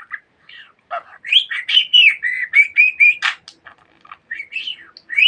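Budgerigar warbling and chirping in a quick run of rising and falling chirps, with a sharp click about three seconds in and more chatter near the end.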